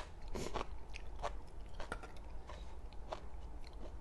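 A person chewing a mouthful of spicy Thai seafood salad close to the microphone, with a string of irregular crisp crunches.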